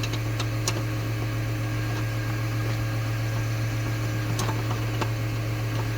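Skid steer's diesel engine idling with a steady low hum, with a couple of light metallic clicks from hand tools, one early and one about four seconds in.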